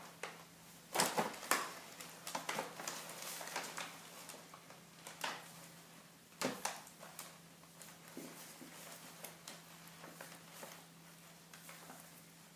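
A bag rustling and crinkling as a cat moves around inside it. Sharper crackles come about a second in and again around five and six and a half seconds, with softer rustles in between.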